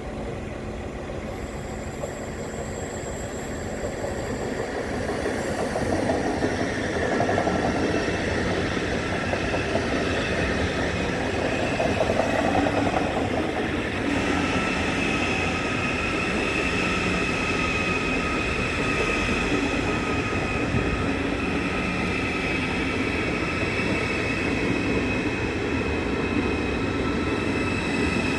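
ICE high-speed train pulling into the platform, its running noise growing louder over the first several seconds, then holding steady; a steady high whine sets in about halfway through.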